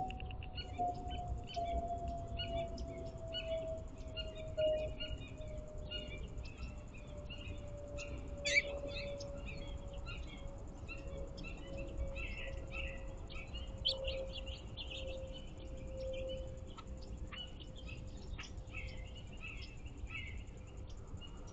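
Small backyard songbirds chirping and calling in many quick, overlapping notes, with one sharper note about eight seconds in. Underneath runs a steady hum that slowly falls in pitch, along with a low rumble.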